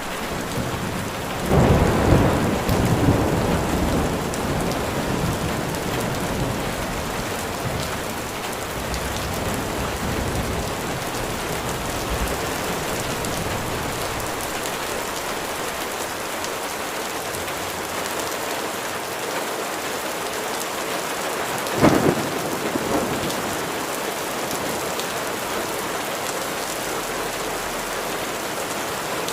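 Steady rain falling. About a second and a half in, thunder rumbles for several seconds. About three quarters of the way through, a sharp thunderclap is followed by a short rumble.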